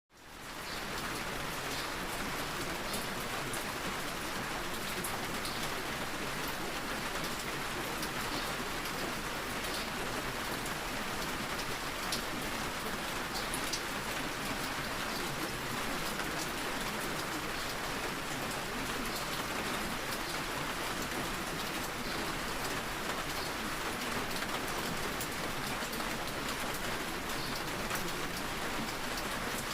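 Steady rain, with scattered drop ticks, fading in over the first second.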